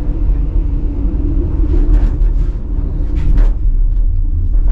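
Gondola cabin riding the cable, heard from inside with its doors shut: a steady low rumble, with a brief noisier swish or rattle about three and a half seconds in.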